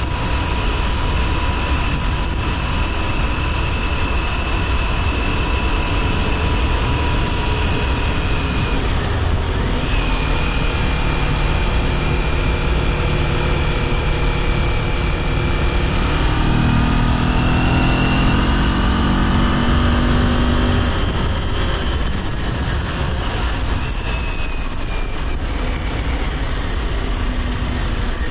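Kawasaki Ninja 400 parallel-twin engine running on the move, under a heavy rumble of wind on the microphone. About halfway through the engine note climbs as the bike accelerates.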